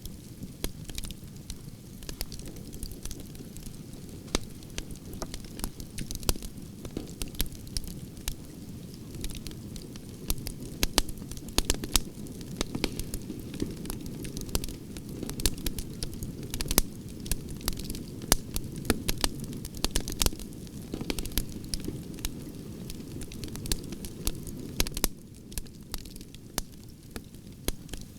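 Branches burning in a fire grate: a steady low rush of flames with frequent irregular sharp crackles and pops, busiest in the middle and thinning near the end.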